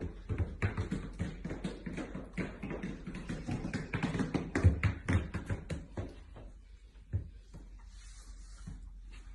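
Rapid, irregular tapping and knocking, densest for the first six seconds, then thinning out to a few scattered knocks.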